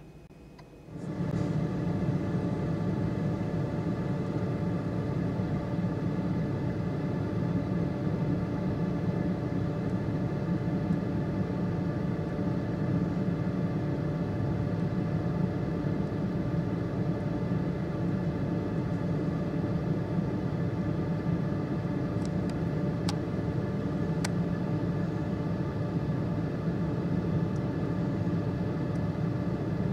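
Steady engine hum of a car heard from inside its cabin, coming on abruptly about a second in, with a couple of small clicks about two-thirds of the way through.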